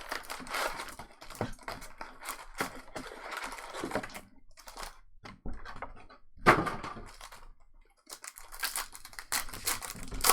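Trading card packs being opened and the cards handled: wrappers crinkling and tearing, and quick clicks and rustles as the cards are flipped through. One louder snap comes about six and a half seconds in, and a dense run of rustling near the end.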